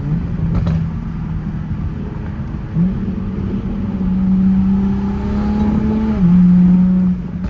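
Tuned Supra's engine and exhaust running under way, a steady note that steps up in pitch about a third of the way in and climbs slowly. Near the end the pitch drops and the engine is at its loudest.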